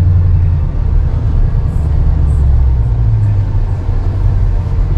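6.4-litre HEMI V8 of a Jeep Grand Cherokee SRT, fitted with long-tube headers and an aftermarket exhaust, rumbling at low speed, heard from inside the cabin. It is a steady, deep drone that swells and eases a little as the throttle changes.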